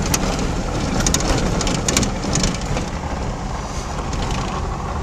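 Road and wind noise of a moving car, with a few short rattles and knocks between about one and two and a half seconds in.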